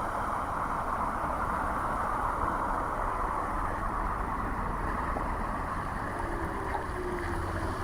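Street traffic: a steady wash of tyre and engine noise from passing vehicles, with a faint pitched engine tone sliding in near the end.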